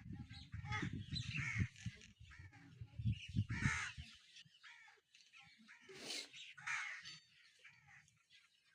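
Birds calling repeatedly, about once a second, with an irregular low rumble during the first four seconds that then stops.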